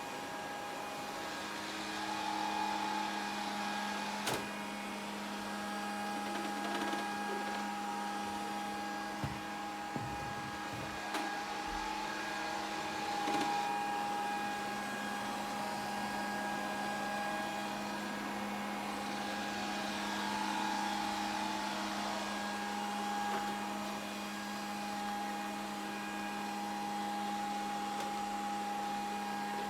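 Grundig VCR 2131 robot vacuum cleaner running: a steady motor and fan hum with a whine over a hiss, and a few short knocks and clicks in the first half.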